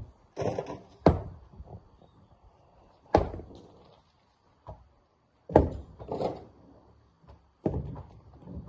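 Heavy thuds of rocks being handled at a quarry face: four strong impacts about two seconds apart, each with a short rattling tail, and smaller knocks between them.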